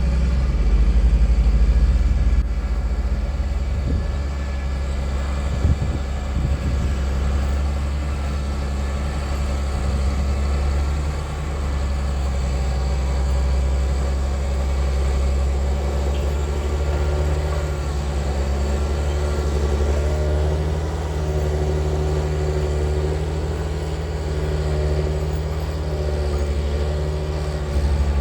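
A John Deere farm machine's engine running steadily with a low rumble. From about halfway, a wavering higher note rises and falls over it.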